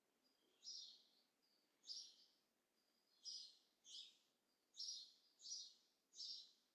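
A bird chirping faintly in the background, short high calls repeated about once a second, seven times, over a quiet room hiss.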